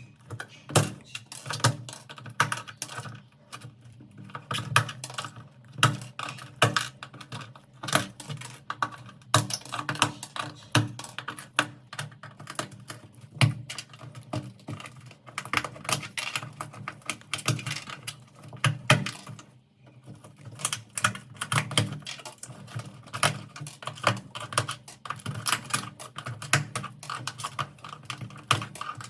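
Computer keyboard keys clicking in quick, irregular runs of many clicks, with a brief pause a little past the middle.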